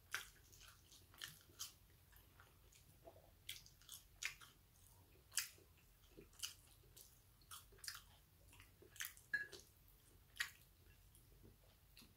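A man eating: faint close-up chewing and biting, with many short, sharp mouth clicks at irregular intervals.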